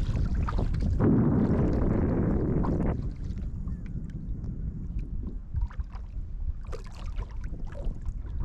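Wind buffeting the microphone on an open small boat: a strong gust about a second in that lasts two seconds, then a lower steady rumble with faint scattered ticks.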